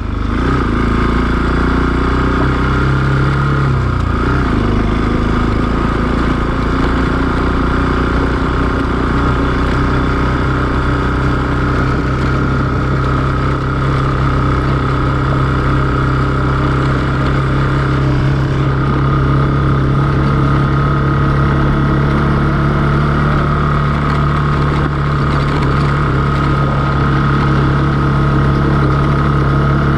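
Motorcycle engine running at a steady speed during a ride. The engine note dips briefly and picks up again about three to four seconds in.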